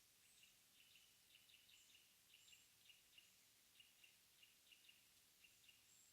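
Faint early-morning mountain ambience: small wild birds giving many short, quick chirps in an irregular run, with a few thin high-pitched notes, over a soft hiss. These are not Mugimaki Flycatcher calls.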